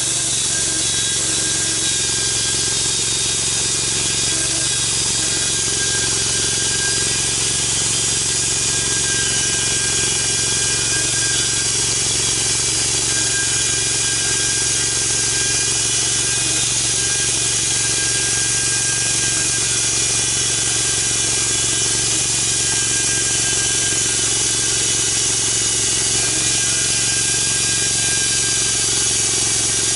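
Engine-driven log mill running steadily under load, sawing through a big log, with a constant engine hum and a bright hiss from the cut.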